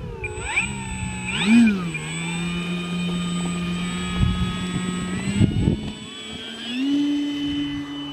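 Electric RC plane's motor and propeller whining, its pitch sweeping up and down with the throttle in the first couple of seconds, then holding steady, dipping, and stepping up again near the end. Gusty wind rumbles on the microphone underneath.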